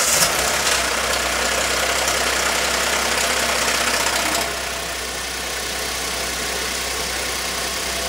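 Hyundai i10's 1.0-litre Kappa G3LA three-cylinder petrol engine running just after start-up on a new timing chain, settling from a fast idle to a lower, steady idle about four and a half seconds in. The shushing noise that the worn original chain made is gone, with only a slight whine left.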